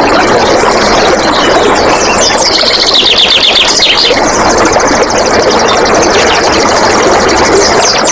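Steady rush of flowing, splashing stream water, with a wild songbird singing fast high trills over it, loudest about two and a half to four seconds in and again near the end.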